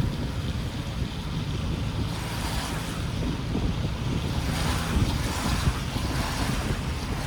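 Wind buffeting the microphone with a low fluttering rumble, over a steady hiss of rain that swells a little midway.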